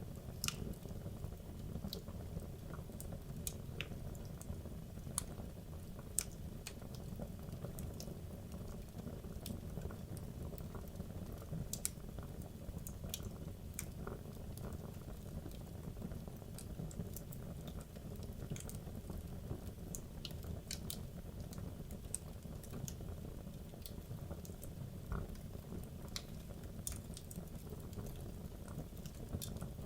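Wood logs burning in a fireplace: a steady low rush of flame with irregular sharp crackles and pops, a few a second.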